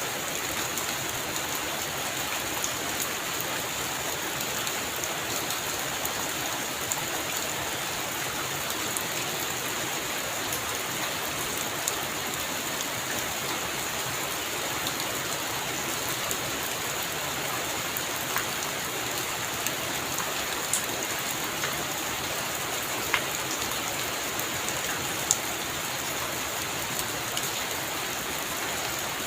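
Heavy rain falling steadily on a roof, with a few louder single drops striking sharply now and then.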